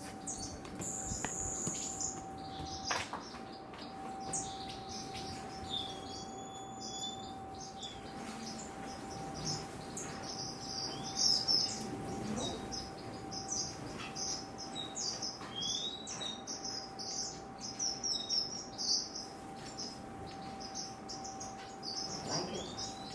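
Estrildid finches chirping in an aviary: many short, high chirps in quick succession with a few sliding call notes, over a steady faint tone.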